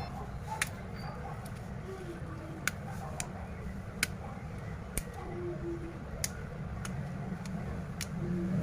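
Scattered sharp plastic clicks and taps, about eight at uneven intervals, from handling and pressing a smartphone's housing after a screen replacement, over a steady low hum.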